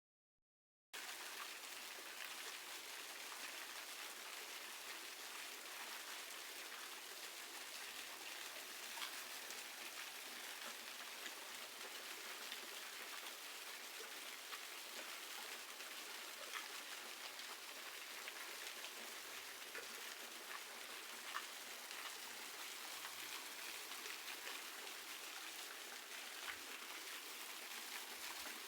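Small snowmelt waterfall: a steady, even rush of falling water with scattered faint ticks, starting about a second in.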